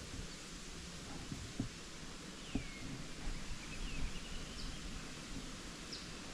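Quiet outdoor ambience: a steady hiss of background noise with a few soft thuds and rustles, and faint bird chirps, one a short call falling in pitch about two and a half seconds in.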